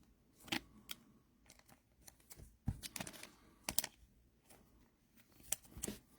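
Faint, irregular clicks of typing on a laptop keyboard, a few keystrokes at a time with short gaps between them.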